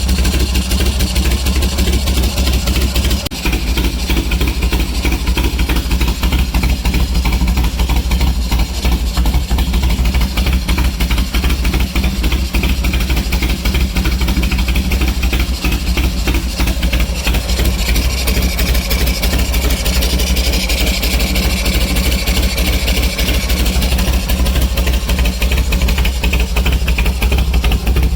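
Freshly rebuilt Harley-Davidson Shovelhead V-twin motorcycle engine idling steadily.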